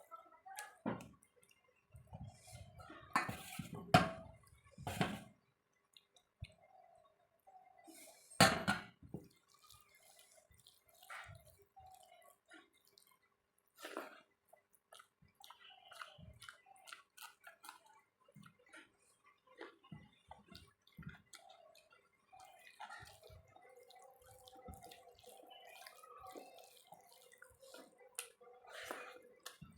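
Close-up eating sounds of rice with dal and omelette: wet, squelchy mixing and chewing with many small clicks. There are a few louder knocks around three to five seconds in and again at about eight seconds.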